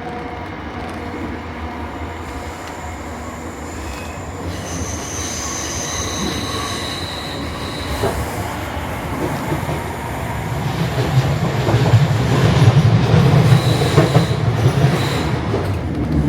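Interior of a Class 455 electric suburban train running along the track, with steady running noise and a few wheel knocks. Wheels squeal in high tones around 5–7 seconds in and briefly again near the end, and the running noise grows louder from about 10 seconds in.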